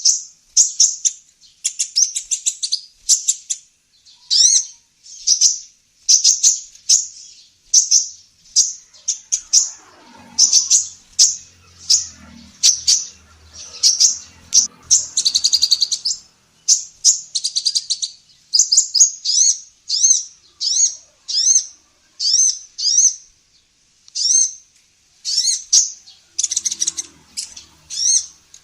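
Female sunbird (kolibri ninja) calling: a steady run of short, high, sharp chirps and quick trills, about one a second.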